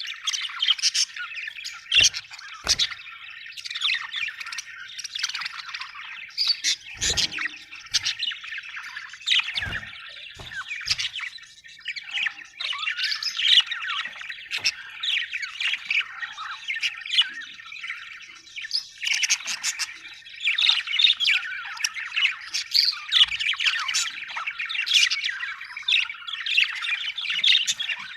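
Budgerigars chirping, warbling and squawking continuously in a busy, overlapping chatter, with a few short knocks in between.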